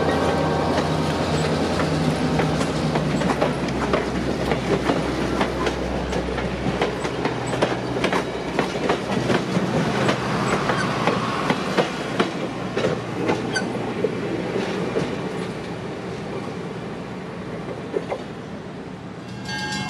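Passenger train passing behind an EMD GP9 diesel locomotive. The engine's low steady drone fades over the first several seconds. Then the wheels click and clatter over the rail joints in quick irregular strokes, thinning out as the train moves off and the sound dies down.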